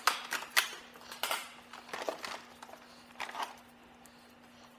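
A run of light clicks and knocks, like tools or metal parts being handled and set down, thinning out after about three and a half seconds, over a steady low hum.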